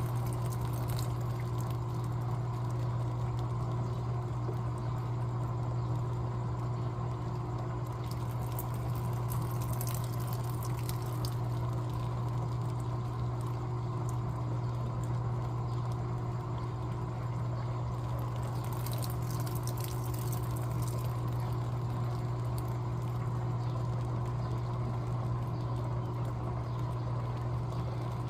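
Electrolux LTA15 top-loading washing machine filling with water: water pouring into the tub over a steady low hum.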